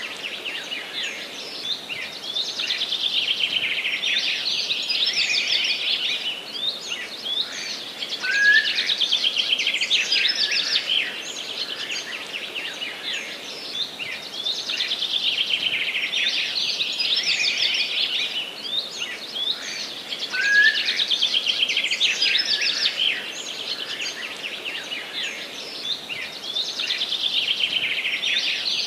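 Several songbirds singing at once, with fast trilling phrases that overlap and swell every few seconds, over a faint steady hiss.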